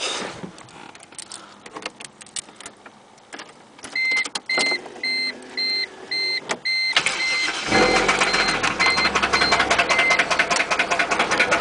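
A few clicks, then a dashboard warning chime beeping about twice a second, then about seven seconds in the Toyota 1JZ inline-six cranks, starts and idles with a rapid knock: rod knock.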